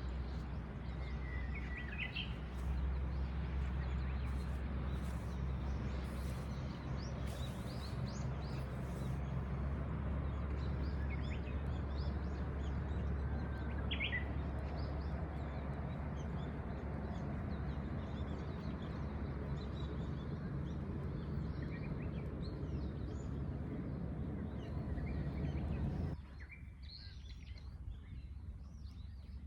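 Wild birds chirping now and then, a few short rising calls and faint twittering, over a steady low rush of outdoor noise that drops away suddenly near the end.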